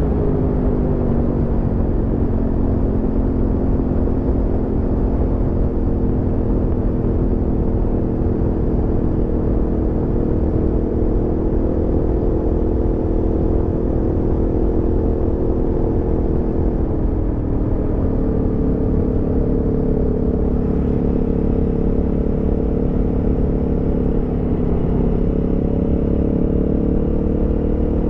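Aprilia Tuono V4's V4 engine pulling the bike along at a steady cruise, its pitch easing down just after the start, holding, then rising gently near the end, over a steady low rush of wind and road noise.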